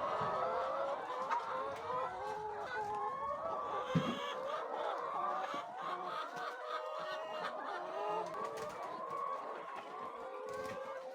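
A flock of chickens clucking, with many short overlapping calls throughout and a single knock about four seconds in.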